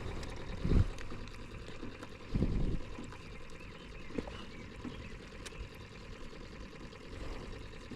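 Water trickling and lapping around a small aluminium jon boat, with two short low thumps, one about a second in and another a couple of seconds later.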